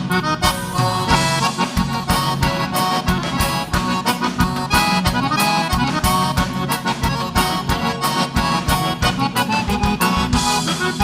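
Gaúcho vaneira dance music played live by a band: a button accordion leads the instrumental break over a quick, driving beat of drums and bass.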